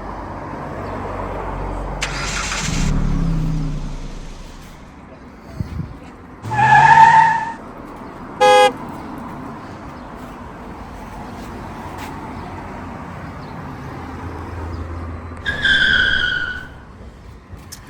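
Street traffic: a car drives by with its engine rising in pitch, then a loud car horn toots about seven seconds in, a short electronic beep follows, and another horn toot comes near the end.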